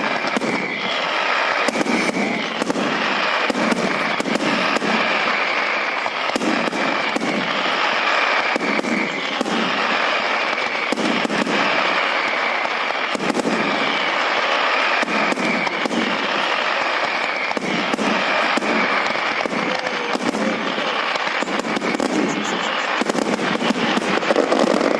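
Fireworks display: a dense, continuous barrage of crackling bangs and pops, with a high whistling tone running through it.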